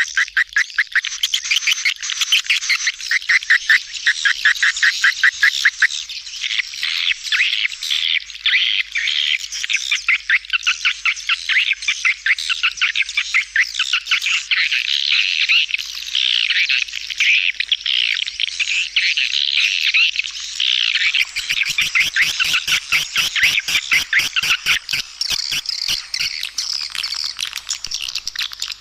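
A recorded lure call of swiftlets, the swiftlet-farmers' "calling sound" used to draw birds to a nesting house. It is a dense, fast twittering of high chirps, starting as a regular rapid series and thickening into overlapping chatter. About two-thirds of the way through, a fast run of sharp clicks joins in.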